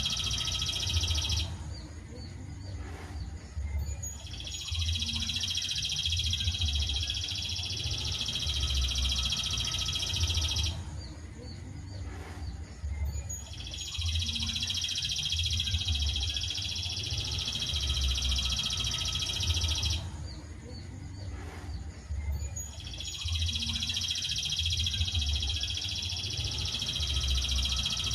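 Bird-song training recording: a dense, high trilling phrase of about six seconds, repeated three times with short pauses between, like a looped track, over a low rumble.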